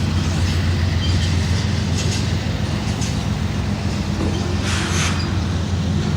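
Norfolk Southern freight train passing close by: a steady, loud low rumble with a constant droning hum. About five seconds in there is a brief high hiss or screech from the wheels.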